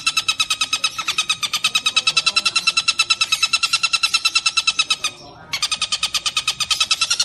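Tengkek buto, a kingfisher, calling in a fast, continuous chatter of harsh repeated notes, about a dozen a second, with a brief break about five seconds in.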